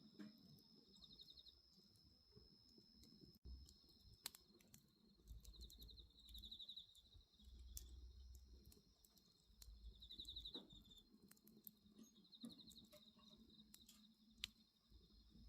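Faint wood bonfire crackling, with scattered sharp pops. Behind it, night insects chirr in a steady high tone, with a few short pulsed trills.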